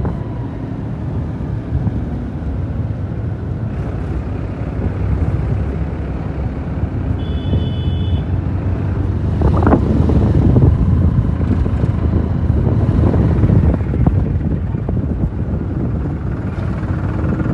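Powertrac 47 tractor's diesel engine running steadily, a low rumble with heavy wind buffeting the microphone.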